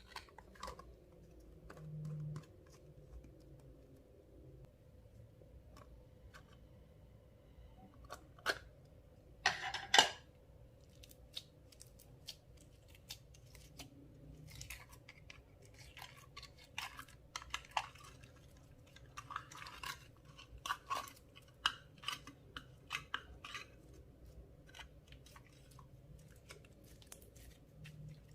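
Clear slime being mixed and squeezed: scattered sticky clicks and crackles, busier in the second half, with a sharp louder crackle about ten seconds in. A faint steady hum runs underneath.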